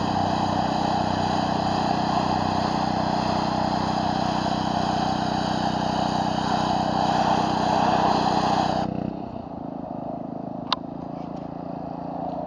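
Pressure washer running with its engine and the water spray hissing steadily. About nine seconds in the spray hiss cuts off abruptly, leaving a quieter engine sound, and a single sharp click follows a moment later.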